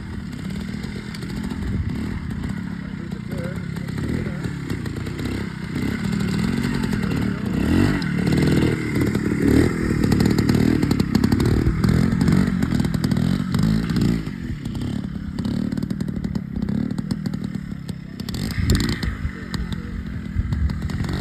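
Twin-shock trials motorcycle engine running, its revs rising and falling over and over, loudest around the middle and easing off for a few seconds after.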